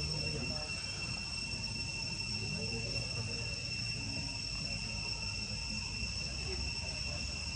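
Insects, cricket-like, keep up a constant high-pitched drone on one steady tone, over a low background rumble.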